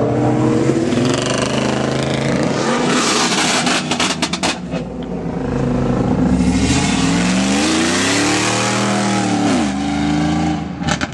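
A car engine revving hard, its pitch climbing and falling several times, with a quick run of sharp cracks about four seconds in.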